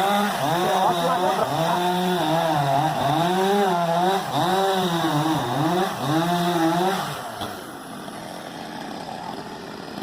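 Two-stroke chainsaw cutting through the trunk of a fallen coconut palm, its engine pitch rising and falling as it is revved and loaded in the cut. About seven seconds in the saw drops away, leaving a quieter steady background.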